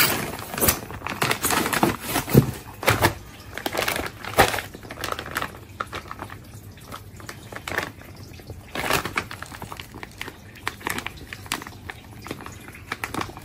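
Irregular rustling and clicking of things being handled, with sharper clicks about half a second in, around two and a half seconds in and at four and a half seconds.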